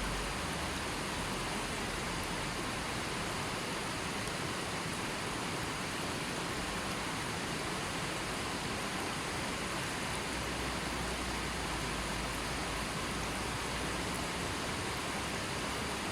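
Gently flowing river water, a steady even rush with no distinct splashes or other events.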